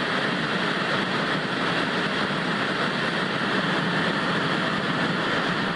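Steady television static: an even, unbroken hiss with little bass.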